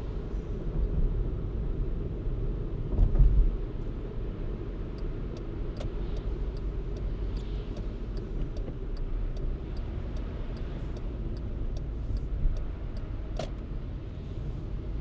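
Car driving on snow-covered city roads: a steady low road and engine rumble, with a bump about three seconds in. From about five to twelve seconds there is a run of light, regular ticks, about three a second, and a single sharp click comes near the end.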